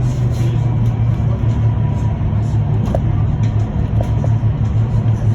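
Cabin noise of an electric bus on the move: a steady low hum with road and tyre noise, a faint thin steady whine above it, and a few light rattles.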